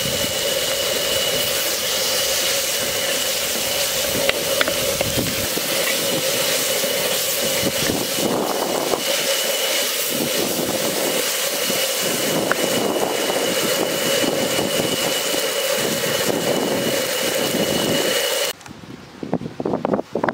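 Onions, tomatoes, green chillies and curry leaves sizzling in oil in a clay pot: a steady hiss with a steady hum under it, and now and then a light knock of the wooden spatula. Near the end it cuts off suddenly to quieter, gusty wind noise.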